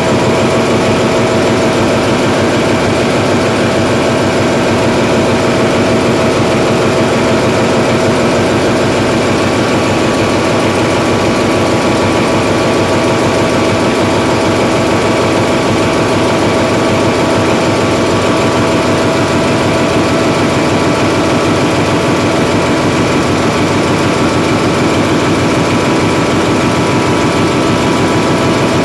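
Hyundai Himsen marine diesel generator engine running at steady speed: a loud, unchanging drone with several fixed tones, with no rise or drop in speed.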